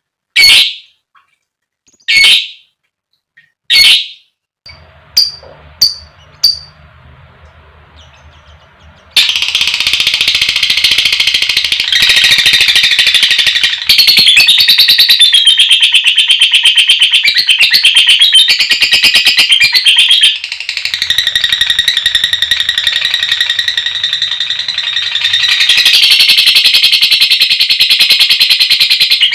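Lovebird calls: three loud, sharp squeaks in the first few seconds and a few shorter chirps. From about nine seconds comes a long, unbroken, rapid trilling chatter, the drawn-out 'ngekek' call a lovebird uses to call to other birds, which eases in loudness for a few seconds past the middle.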